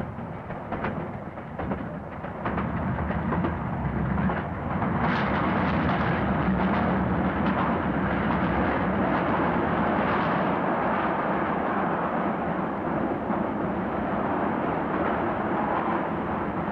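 Steam train running on the rails, a steady rumble and rattle with a few sharp clacks in the first few seconds; it grows louder about four seconds in and holds steady.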